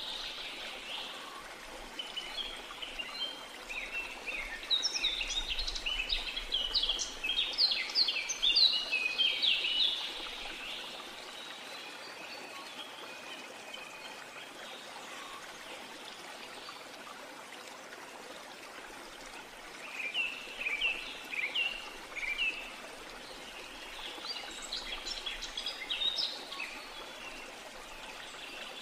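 Birds chirping in bursts of quick high notes, over a steady background hiss like running water or outdoor ambience.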